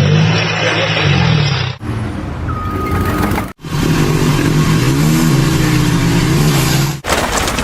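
Motor-vehicle engines running and revving, in several short clips cut together abruptly, with a brief steady beep about two and a half seconds in.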